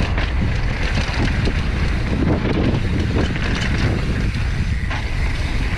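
Wind rushing over the microphone during a mountain bike descent on a dirt trail, a steady loud rumble mixed with tyre noise and scattered short rattling knocks from the bike.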